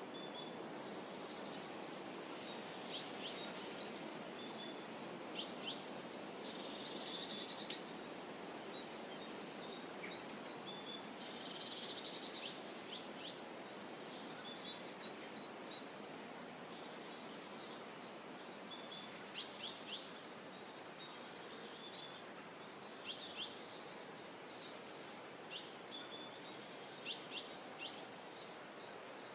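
Small birds chirping and calling again and again: quick high chips, short down-slurred notes and brief trills. Under them runs a steady soft hiss of outdoor background noise.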